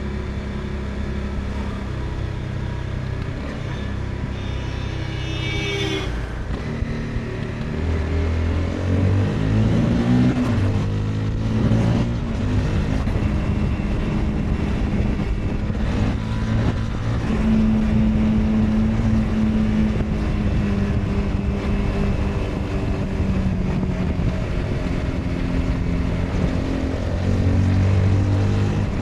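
Honda CBR 250R's 250cc single-cylinder engine running under way, its pitch stepping up and down with throttle and gear changes. It grows louder from about eight seconds in.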